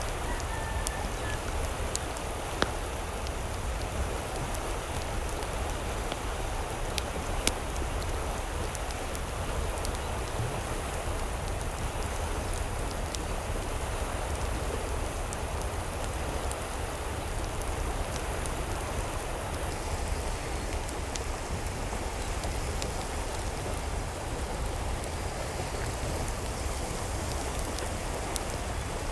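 Steady water noise, an even hiss with a few sharp ticks scattered through it.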